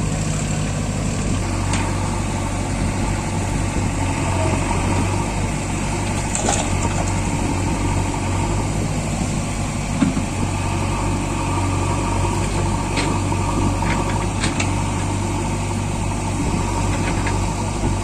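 Tractor diesel engine running steadily, with a few faint clicks and a short knock about ten seconds in.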